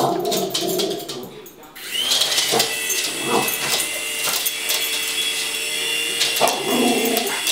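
Small electric motors of a toy RC helicopter spinning up about two seconds in, then running with a steady high whine as the rotors keep it hovering.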